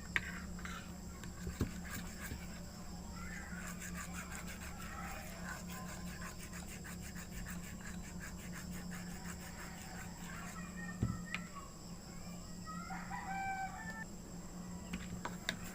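Chickens calling in the background, with a rooster-like call of about a second near the end, over a steady low hum.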